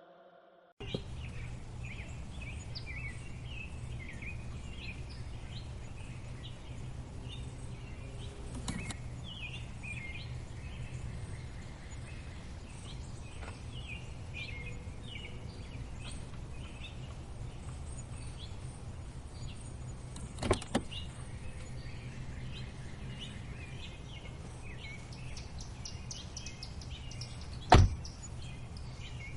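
Birds chirping over a steady low rumble, with a few sharp knocks; the loudest knock comes near the end.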